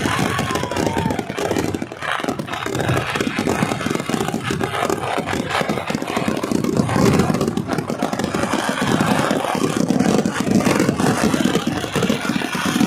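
A dense barrage of firecracker bangs from a Kerala temple fireworks display (vedikkettu), the rapid explosions running together into a continuous rolling rumble.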